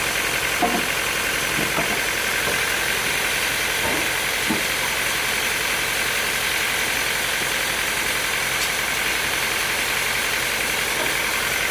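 Sawmill machinery running steadily, an even engine-like drone with a constant high hum, with a few faint short knocks in the first five seconds.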